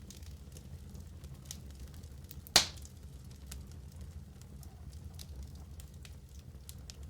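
Wood fire burning in a fireplace, with a steady low rumble and scattered small crackles, and one loud sharp pop about two and a half seconds in.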